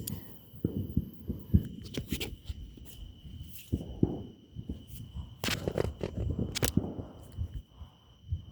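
Irregular footsteps and handling knocks, a few of them sharp clicks, with a faint steady high tone behind them.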